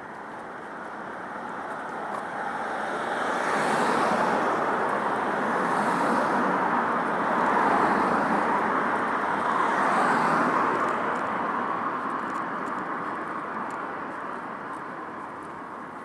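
Road traffic: a run of cars passing close by on a town street, their tyre and engine noise building for a few seconds, staying loud, then fading away.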